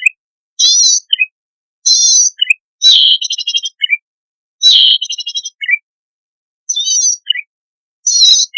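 Zitting cisticola (cici padi) song, a lure recording for wild birds: a short buzzy trill, each followed by two quick high notes, repeated about every second and a half. About three and five seconds in come longer phrases that end in a fast stuttering run of notes.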